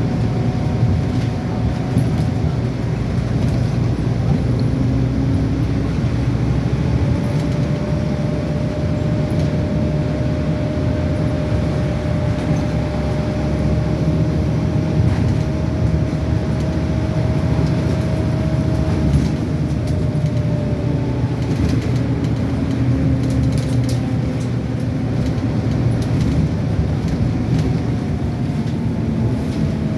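Scania N230UD double-decker bus's five-cylinder diesel engine running under way, heard from on board. Its tones slowly rise and fall as the bus speeds up and slows.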